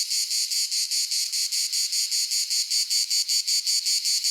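An insect chirping in a fast, even, high-pitched pulse of about seven chirps a second.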